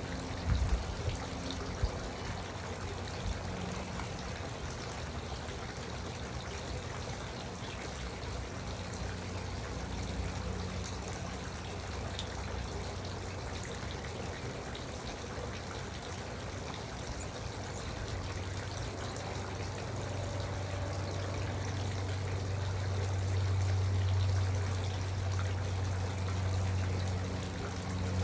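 Garden water fountain trickling and splashing steadily, with a low hum under it that grows louder in the second half and a few small clicks near the start.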